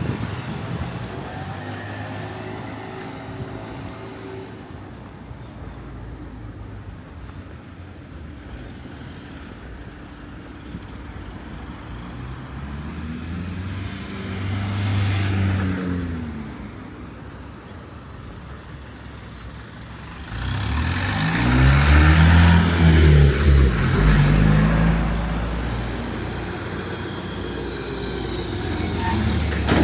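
Street traffic: motor vehicles drive past over a steady low engine hum. One passes around the middle, and a louder, heavier vehicle, likely a truck or bus, goes by about two-thirds of the way through.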